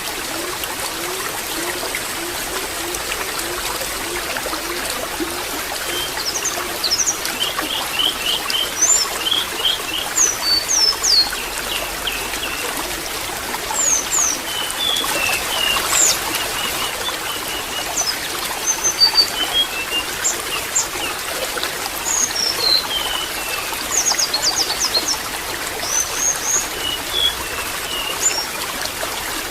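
Water trickling and splashing steadily, with small birds chirping in short repeated calls from about six seconds in.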